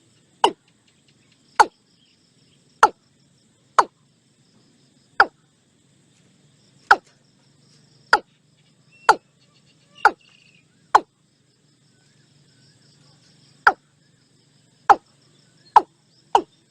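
Watercock calling: a series of short notes, each dropping quickly in pitch, about one a second, coming faster near the end.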